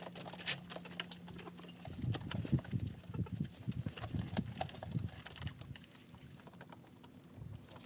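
Footsteps crunching through snow, an irregular run of soft thuds and crisp clicks, with a faint steady low hum in the first two seconds.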